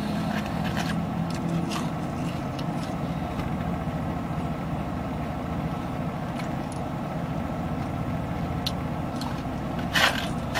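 Steady hum of a car idling, heard inside the cabin, with a few faint clicks and a brief rustle near the end.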